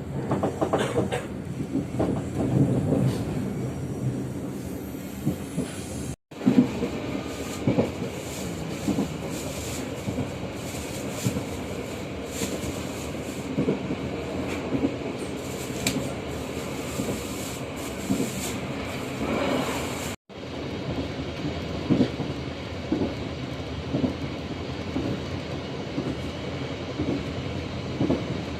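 Local passenger train running along the track: a steady rumble of the carriage with wheels clicking and knocking over rail joints at irregular intervals. The sound drops out for an instant twice, about 6 and 20 seconds in.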